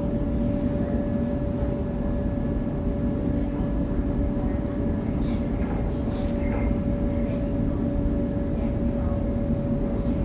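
Electric suburban train running at steady speed, heard from inside the carriage: an even rumble of wheels on rails with a steady whine held at one pitch.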